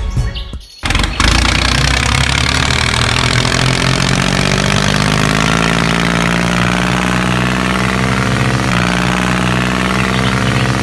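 An engine running steadily at idle, starting about a second in; its pitch shifts slightly about nine seconds in.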